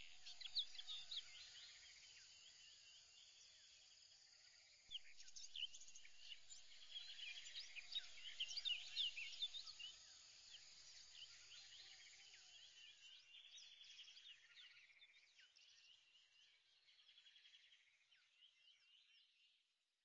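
Faint chirping like birdsong: many short, quick chirps that grow louder about five seconds in, then fade out toward the end.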